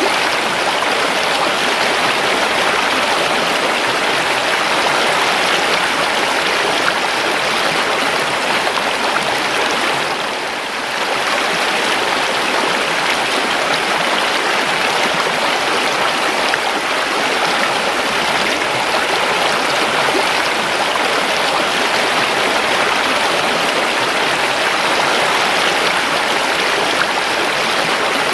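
Flowing river water rushing and gurgling, with a brief dip in level about ten seconds in.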